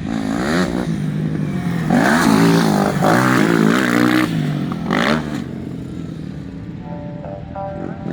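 Motocross dirt bike engines revving up and down through the gears, with several rising and falling sweeps loudest in the middle. Music begins near the end.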